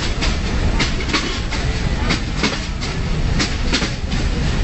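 Passenger train running along the track: a steady low rumble of the running gear, with the wheels clicking over the rail joints about twice a second, often in pairs.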